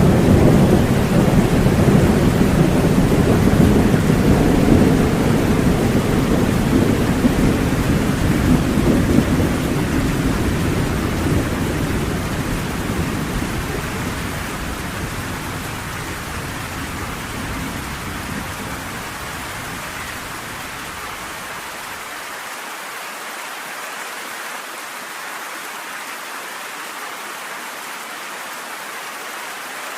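Steady rain with a long rolling thunder rumble that fades away over about twenty seconds, leaving only the even hiss of the rain.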